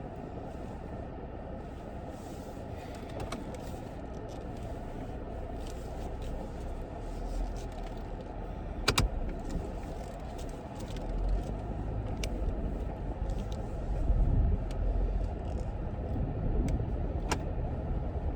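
Steady low rumble of a car on the move, swelling in the second half, with a few sharp clicks and taps.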